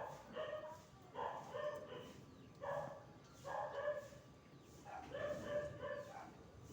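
A dog barking repeatedly, one short pitched bark about every second or so.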